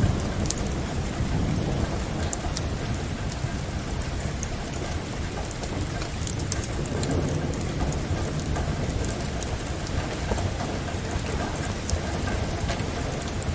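Steady rain, with a low thunder rumble dying away at the start and a fainter roll of thunder around the middle. Scattered small sharp crackles of a wood fire sound over it.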